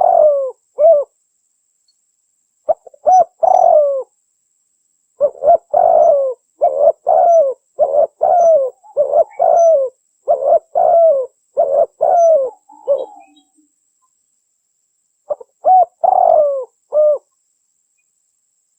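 Spotted dove (tekukur) cooing in repeated phrases, in bouts separated by silent gaps: a short phrase at the start, another about three seconds in, a long run of about a dozen coos from about five to thirteen seconds, and one more bout near the end. It is a lure call for attracting wild tekukur.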